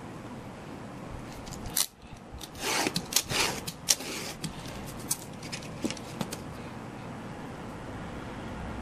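Utility knife cutting, drawn through the material several times to free the piece: a sharp snap about two seconds in, then a burst of scraping strokes and clicks, trailing off into light ticks.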